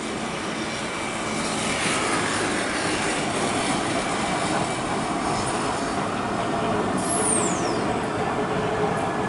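Steady street traffic noise that swells slightly about two seconds in, with a short high whistle falling in pitch about seven seconds in.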